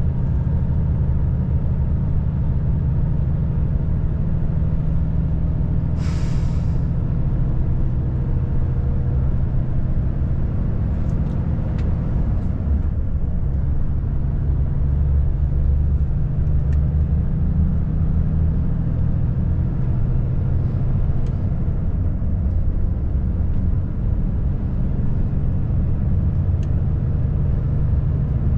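Volvo FH540 truck's 13-litre six-cylinder diesel running steadily under way, a low drone throughout. About six seconds in, a short hiss of compressed air from the truck's air system.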